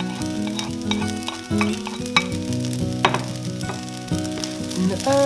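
Shrimp fried rice sizzling in a hot pan as a spatula stirs through it, with a few sharp clicks of the utensil against the pan about two and three seconds in. Background music plays underneath.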